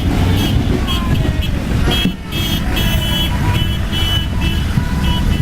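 Car horns honking in celebration, many short toots one after another, over a steady low rumble.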